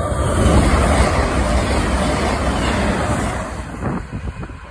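CrossCountry Voyager diesel multiple unit passing close at speed: a loud rush of underfloor engine and wheel-on-rail noise that dies away in the last second.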